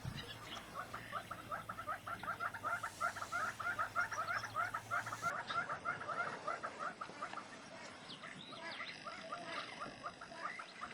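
A bird calling in a fast, steady series of short notes, about five a second, with a brief pause about eight seconds in before the series starts again.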